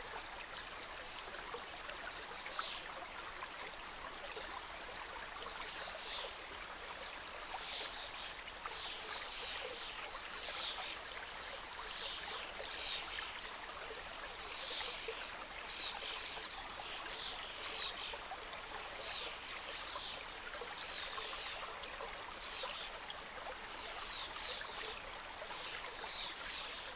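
Forest mountain stream flowing over stones, a steady rushing trickle, with birds chirping again and again in short high notes from a few seconds in.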